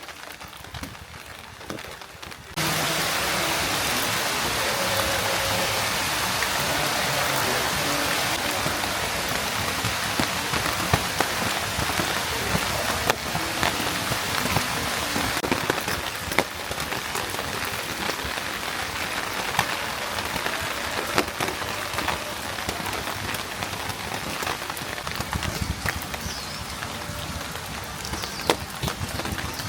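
Steady rain falling, with scattered sharp hits of individual drops on nearby surfaces. It becomes suddenly louder about two and a half seconds in, then stays steady.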